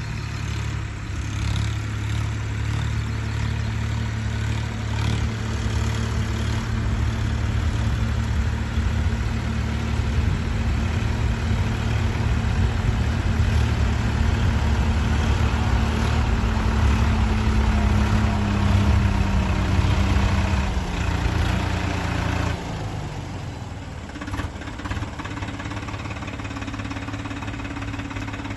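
Tractor engine running steadily. Its pitch eases down slightly, then it drops in level about 22 seconds in.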